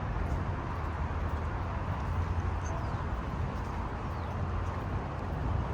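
Steady outdoor noise: a continuous low rumble under a hiss, with a few faint high chirps.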